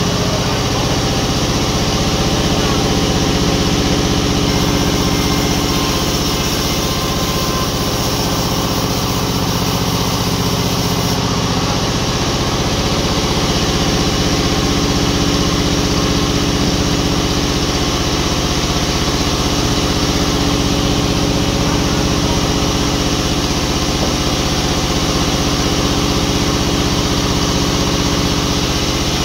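Sawmill machinery running at a steady pitch: a motor hum that holds unchanged throughout.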